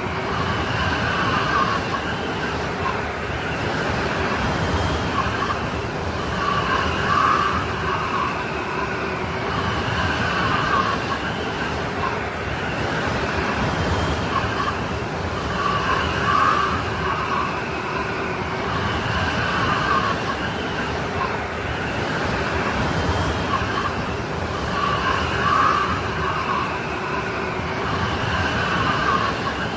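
Strong wind blowing in a snowstorm: a steady rush with whistling gusts that swell and fade about every nine seconds.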